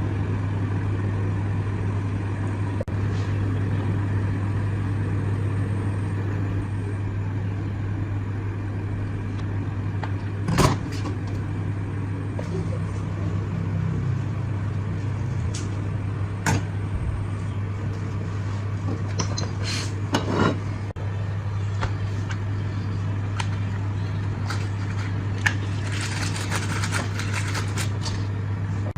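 A machine running with a steady low hum, with a few sharp knocks and a brief hiss near the end.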